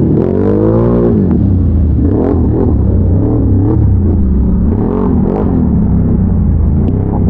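ATV engine under way: the revs drop sharply in the first second as the throttle closes, then rise and fall again and again with throttle changes, with a few brief knocks along the way.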